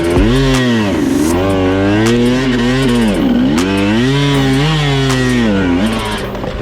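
Dirt bike engine revving up and down as the throttle is worked, the revs dropping sharply about a second in and again around three seconds in, then climbing back each time.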